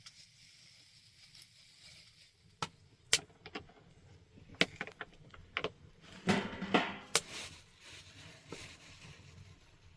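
Irregular sharp clicks and knocks, about a dozen spread over several seconds, with a short rustling scrape about six to seven seconds in.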